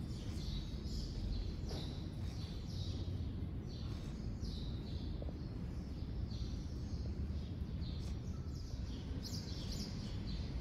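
Small birds chirping in short, repeated, downward-sliding notes over a steady low rumble.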